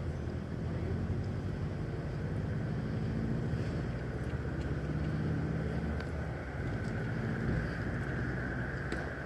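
A motor vehicle's engine idling, a steady low hum. A higher steady whine grows stronger near the end.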